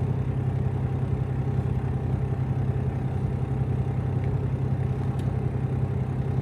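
Semi-truck's diesel engine idling, a steady low drone that holds even throughout.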